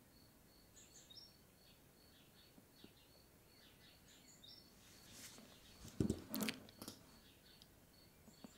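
Faint background birdsong: small birds chirping over and over. A few short knocks about six seconds in.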